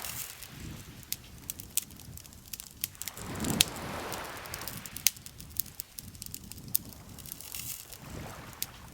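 Wood campfire crackling, with frequent sharp pops and snaps. Under them is a soft whooshing swell that rises and fades, loudest about three and a half seconds in and again near the end.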